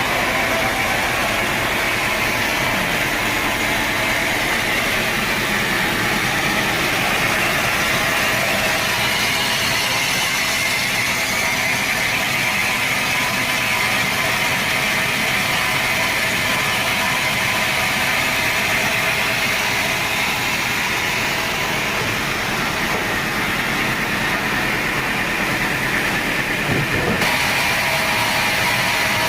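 Sawmill saw running steadily as it cuts through a teak log, a continuous mechanical noise. The sound changes abruptly a couple of seconds before the end.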